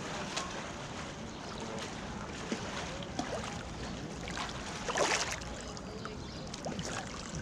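Swimming-pool water sloshing and lapping, a steady rush, with a brief louder splash about five seconds in.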